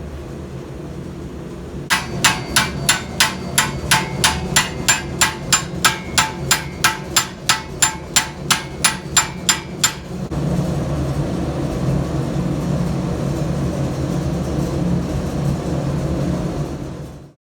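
A blacksmith's hammer striking metal, about two dozen steady ringing blows at roughly three a second. After the blows stop, a steady mechanical drone runs on and then cuts off suddenly near the end.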